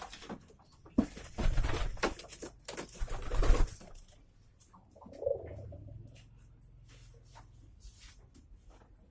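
Domestic pigeons cooing low, with a stretch of loud rustling about one to four seconds in.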